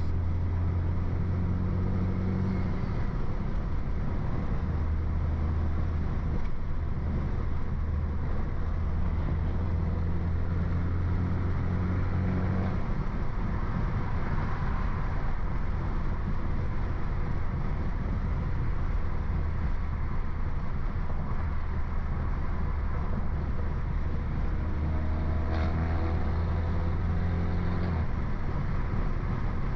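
Modified BMW 328i's turbocharged four-cylinder engine and aftermarket exhaust running while the car is driven at a fairly steady pace, with road noise. It is a continuous low drone that changes in strength a few times.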